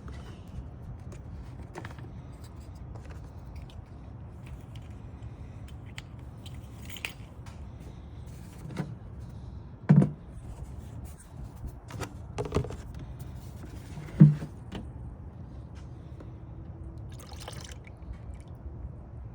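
Scattered knocks, clicks and scrapes of tools and car parts being handled under the hood, over a steady low hum. The two loudest knocks come about ten and fourteen seconds in.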